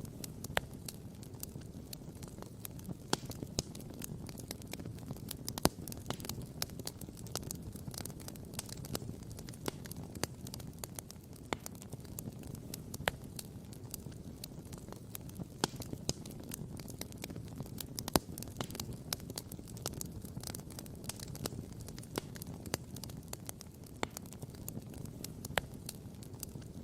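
Wood campfire crackling and popping, many sharp irregular snaps over a steady low rush.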